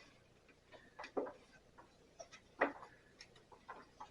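Scattered light clicks and taps from hands working a new urethane tire into the groove of a bandsaw wheel, the loudest knock about two and a half seconds in.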